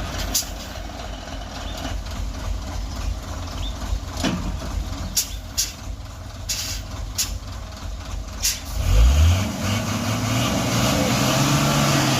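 Heavy truck on a steep climb: its diesel engine runs low under short, sharp air-brake hisses. About nine seconds in, the engine revs up and holds a steady, higher pitch.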